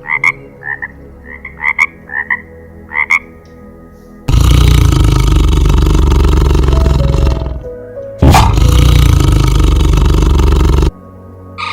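Wild animal calls over a faint steady music bed: about eight short croaking calls in the first three seconds, then two long, loud, rough roars of about three seconds each, with a short break between them.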